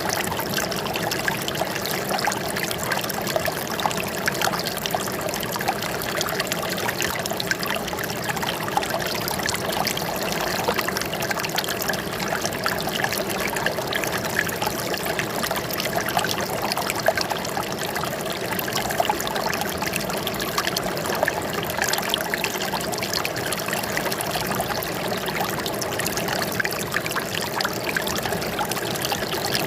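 Water flowing and trickling steadily, a continuous splashing rush with no break or change.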